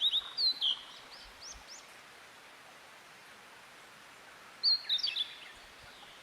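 A niltava singing two short bursts of high, clear song with quick rising and falling notes: one at the start, another about four and a half seconds in, over a steady background hiss.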